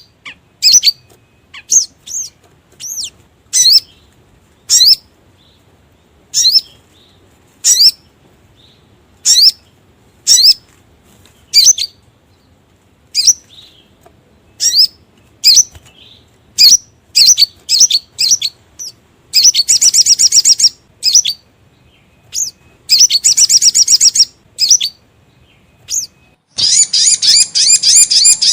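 Sogon (sogok ontong) bird lure calls: sharp, high chirps that drop in pitch, repeated about once a second. Twice in the second half they break into rapid chattering trills, and near the end into a steady fast trill.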